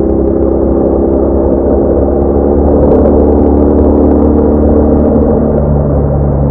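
BMW R1200R boxer-twin motorcycle engine running under way, a steady drone whose pitch drops a little about five seconds in.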